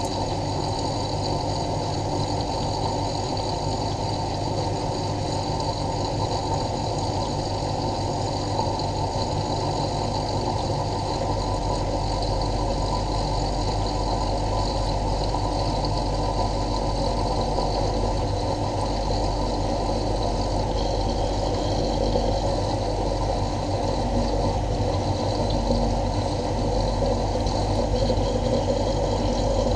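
Miele Novotronic W923 washing machine running mid-cycle on a cottons programme: a steady motor and drum hum with several constant tones, growing slightly deeper and fuller from about a third of the way in.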